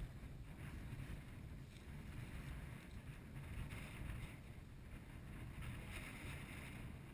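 Wind buffeting the microphone, a steady low rumble, with patches of faint rustling.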